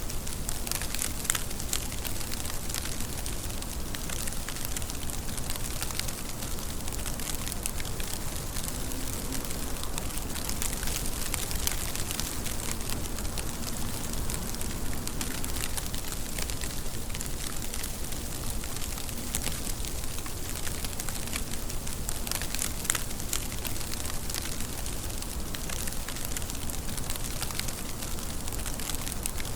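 Steady rain falling, with a dense patter of individual drops ticking over the even hiss.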